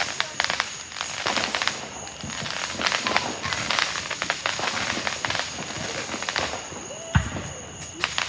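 Firework crackling: a dense, irregular run of small rapid pops and snaps, with one louder pop about seven seconds in.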